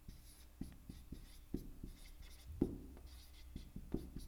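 Pen or marker writing or drawing in short scratchy strokes, with irregular light taps and knocks.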